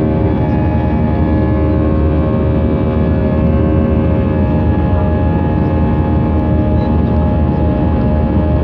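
Airbus A320's jet engines running at takeoff power: a steady loud roar with several droning, whining tones over a deep rumble.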